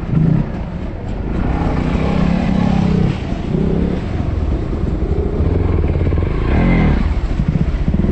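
Dirt bike engine running and revving, its pitch rising and falling as the throttle is worked.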